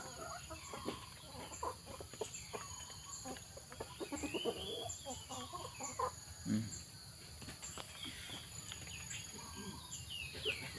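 Scattered short animal calls over small clicks and knocks: soft clucking and cheeping, with one longer rising-and-falling call about four seconds in and quick falling chirps near the end.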